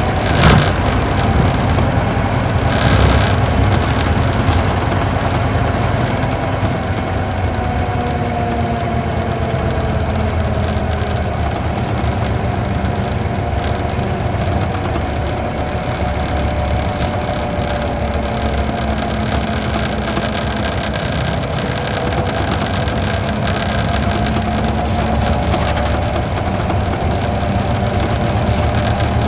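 Isuzu Gala coach's V-type diesel engine running under steady load, heard from inside the cabin, its pitch drifting slowly up and down as it pulls uphill. There are two brief knocks near the start.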